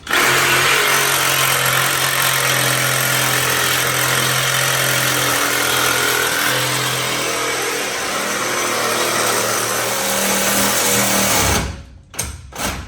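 Electric power saw cutting through a steel frame cross member, a steady motor hum under a loud harsh cutting noise; it starts suddenly and stops about eleven and a half seconds in.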